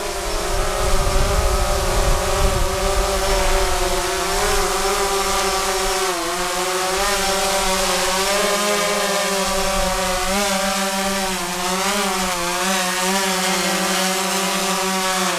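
DJI Phantom 3 Professional quadcopter hovering low as it comes in to land, its four motors and propellers making a steady whine whose pitch wavers as the motors keep adjusting. A low rumble sits under it for the first several seconds.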